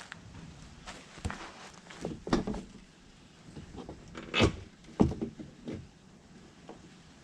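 Scattered knocks, rustles and scrapes of the plastic under-engine splash shield and hand tools being handled as the shield is refitted and fastened under the car. The loudest knocks come about four and five seconds in.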